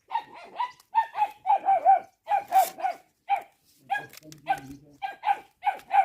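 A dog barking over and over in quick, high-pitched barks, about three a second.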